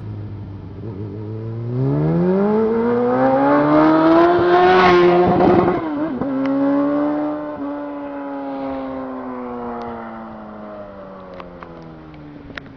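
Yamaha R1 inline-four sport-bike engine accelerating hard, its note climbing steeply for about three seconds. The pitch drops once, about five and a half seconds in, as it shifts up. It then holds a high note that slowly falls and grows fainter.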